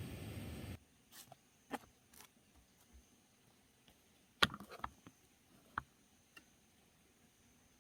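Scattered light clicks and knocks, about eight in all, the loudest about four and a half seconds in with a few quick ones right after it. A steady hiss stops abruptly under a second in.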